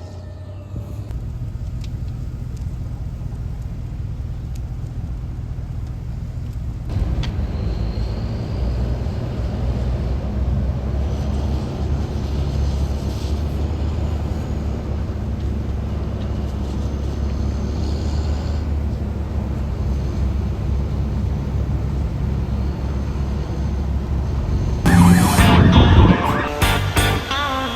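Fire truck driving, its engine and road noise a steady low rumble that grows louder about seven seconds in. Near the end, loud pitched sounds with several tones cut in.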